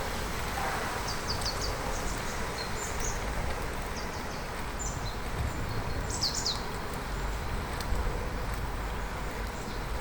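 Steady rush of air and tyre noise from a bicycle on the move, with a bird calling in short high chirps several times, most clearly about six seconds in.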